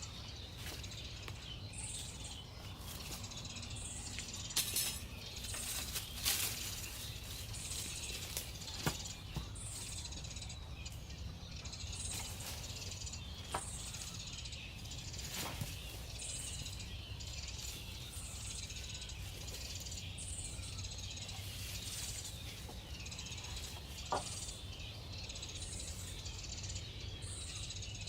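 Woodland ambience: a small high chirp repeats every second or two over a steady hiss of insects and a low rumble, with a few sharp clicks or snaps.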